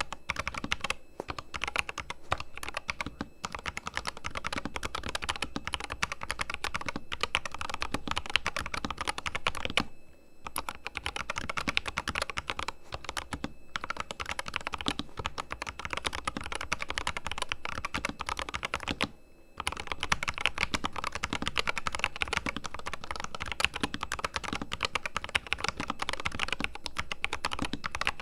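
Fast, continuous typing on a Corsair K100 RGB mechanical keyboard with fully lubricated switches. The keystrokes come in quick runs broken by a few short pauses.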